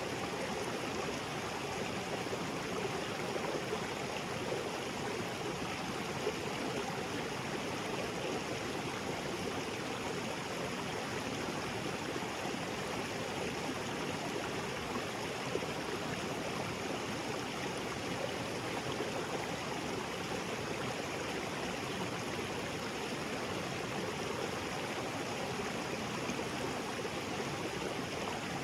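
Small waterfall and creek water splashing and flowing over rocks, a steady unbroken rush.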